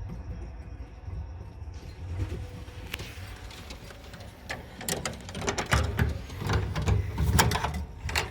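A pigeon loft's breeding-cage door sliding and rattling, followed by a run of clattering knocks.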